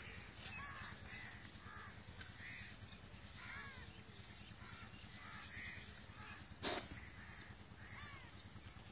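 Birds calling over and over, short curved calls, with one sharp knock about two-thirds of the way through.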